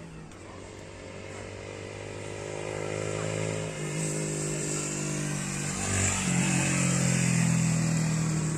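Motorcycle engine running with a steady note that grows louder over the first few seconds. Its pitch steps up about four seconds in and again about six seconds in.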